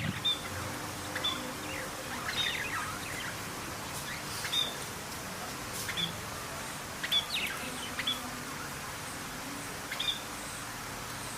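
Birds chirping: short, high chirps and quick falling notes every second or two, over a steady background hiss.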